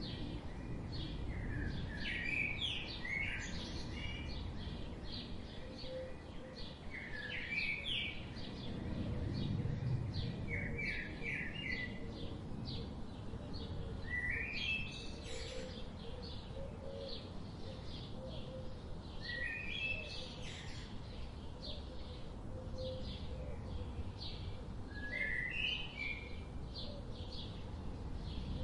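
Birds chirping and calling: many short, repeated chirps and brief call phrases throughout, over a steady low background rumble.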